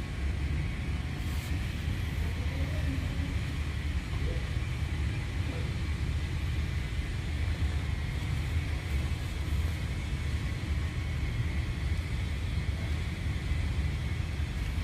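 Car engine idling: a steady low rumble that does not rise or fall.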